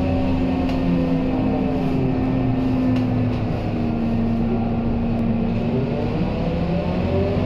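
Scania K230UB city bus with its five-cylinder diesel running steadily. A whine in the drivetrain falls in pitch a few seconds in, then rises again near the end as the bus picks up speed.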